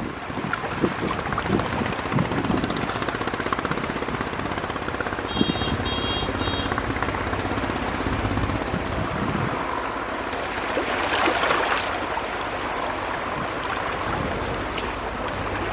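Passenger river launch's engine running steadily under rushing water and wind noise, with a few short high beeps about five to seven seconds in.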